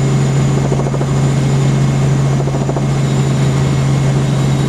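Helicopter in flight: a loud, steady low drone from the rotor and engine.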